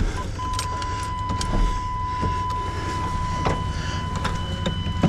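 A vehicle engine idling with a steady low rumble, a steady high whine over it and scattered metallic clicks and knocks.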